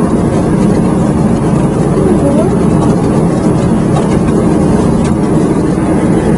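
Loud, steady din inside a battery-cage laying-hen shed: a mass of caged hens calling over a low, even roar, with an odd single call rising above it.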